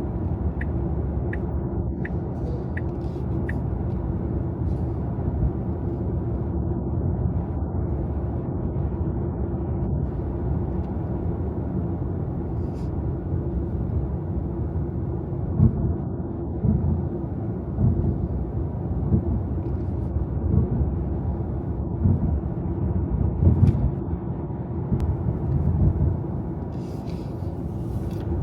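Steady low road and tyre rumble of a Tesla electric car driving at highway speed. A run of soft, evenly spaced ticks comes in the first few seconds, and heavier irregular low thumps come through the second half.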